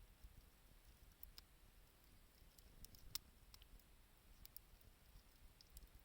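Wood campfire crackling faintly: scattered, irregular sharp pops and ticks, the loudest about three seconds in, over a faint low rumble.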